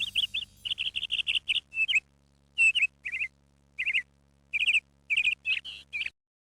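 A small bird chirping: a quick run of short chirps, then separate bursts of rapid chirps with short pauses between them, cut off abruptly near the end.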